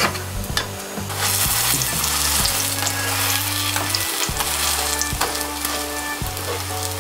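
Mung bean and potato pancake frying in oil in a nonstick pan, a steady sizzle that grows louder about a second in, with a few light touches of a plastic spatula pressing on it.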